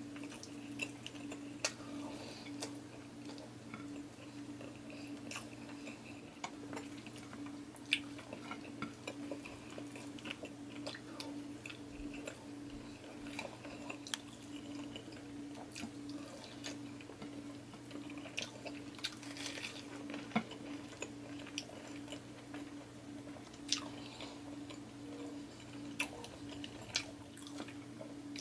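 Close-miked mouth sounds of a person chewing and smacking while eating rice and fried pork chop by hand, with occasional clicks of fingers and food on a ceramic plate. A steady low hum lies underneath.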